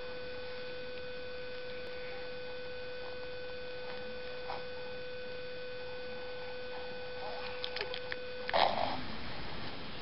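A steady, even hum at one pitch that cuts off suddenly about eight and a half seconds in, followed at once by a brief louder rustling noise.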